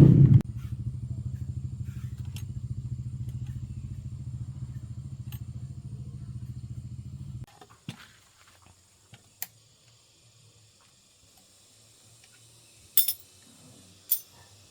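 A small engine running with a rapid, even firing pulse after a brief rev at the start, then cutting off suddenly about seven seconds in. Near the end come two sharp metallic knocks.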